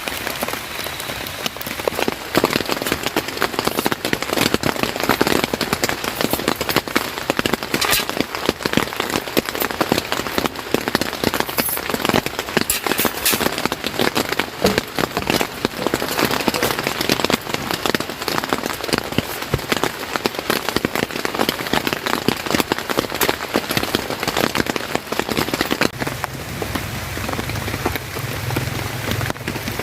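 Steady rain pattering densely on a surface, with many fine drop impacts. About four seconds before the end the patter softens and a low, steady rumble joins in.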